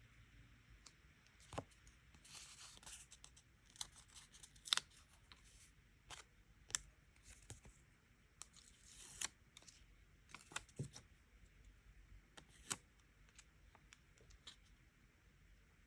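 Quiet paper-crafting sounds at a desk: paper and stickers being handled, with scattered light clicks and taps and a couple of short rustling scrapes.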